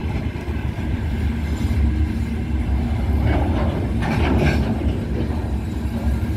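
Open iron ore pellet wagons of a heavy freight train rolling past on the rails: a steady deep rumble with wheel clatter. A louder stretch of metallic rattling and screeching comes about three to four and a half seconds in.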